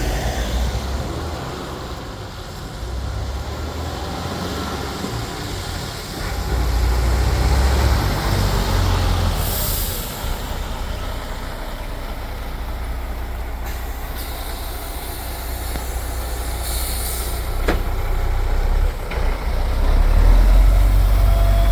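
MAN TGA 18.480's straight-six diesel engine running as the truck is driven, a deep rumble that swells and eases. Two short bursts of air hiss from the air brake system, around ten and seventeen seconds in, and a single sharp click just after the second.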